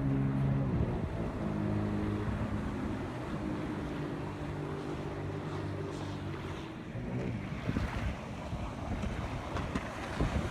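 Jet ski engine running, its pitch shifting a little, with wind buffeting the microphone; the engine tone drops away about seven seconds in, leaving wind noise.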